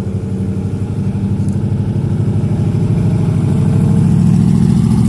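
A car engine running at low speed with a deep, pulsing exhaust note that grows slowly louder.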